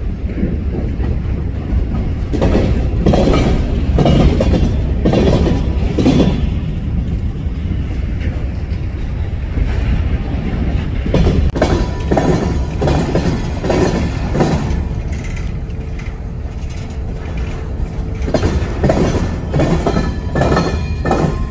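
Freight train rolling past, its car wheels clicking over rail joints in repeated bunches over a steady low rumble.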